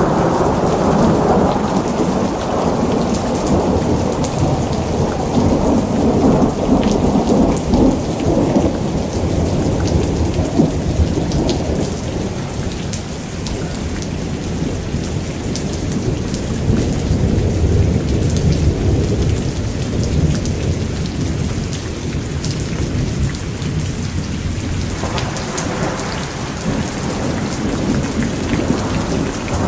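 Steady rain with thunder rumbling almost continuously. The rumble is strong at first, eases a little around the middle, swells again, dies down briefly, then builds into a fresh roll near the end.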